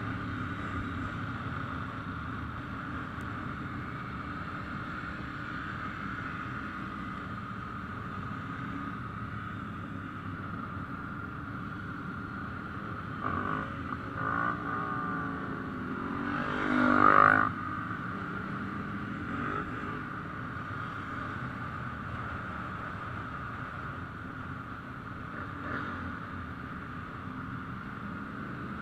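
A motorcycle engine passes by, its note swelling and gliding in pitch to a loud peak about two-thirds of the way in, then fading. Under it runs a steady background drone.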